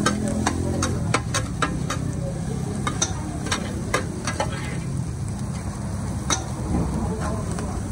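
Noodles sizzling on a large flat griddle while a metal spatula and ladle clink and scrape against it. The clicks come thickly at first and thin out about halfway through, with one sharp clink later on.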